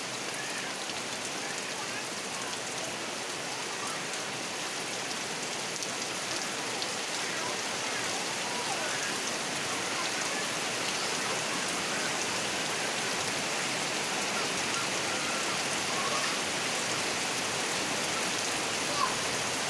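Steady rain falling on the ground and surfaces, an even continuous hiss.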